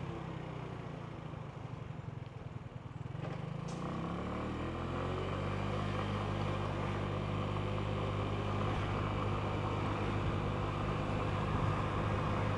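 Genuine Buddy 125 scooter's single-cylinder four-stroke engine running at low revs, then rising in pitch about three to four seconds in as the scooter accelerates, and running steadily at higher revs after that.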